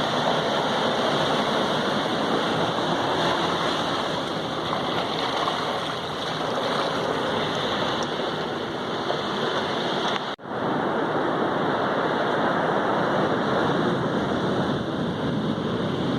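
Sea waves washing on the shore: a steady rushing noise that cuts out for an instant about two thirds of the way through.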